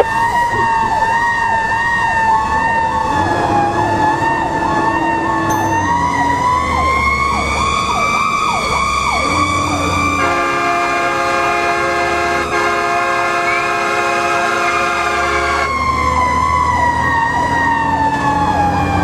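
Fire engine siren wailing, its pitch slowly rising and then falling. A long, steady horn blast sounds over it from about halfway through for some five seconds.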